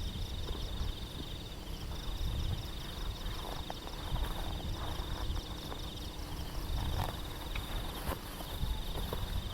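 Night insects trilling in long, fast-pulsed trains that break off briefly and resume, over a low rumble. A few soft knocks come in the second half.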